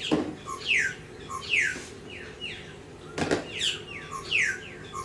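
A bird calling over and over with quick, downward-sweeping chirps, several a second. Two sharp knocks come through as well, one at the very start and one just past three seconds in.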